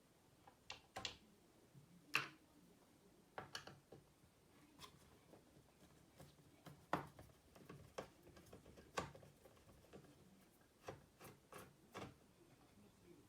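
A dozen or so sharp, irregularly spaced clicks and light taps, some in quick pairs, over near silence.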